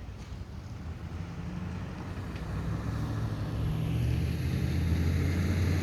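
A vehicle engine hum growing steadily louder as it approaches.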